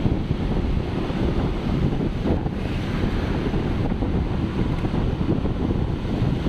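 Wind buffeting the microphone: a steady, loud, low rushing rumble with no pitch.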